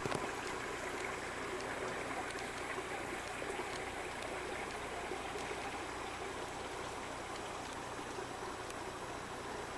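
Small spring-fed stream flowing, a steady trickling rush of water.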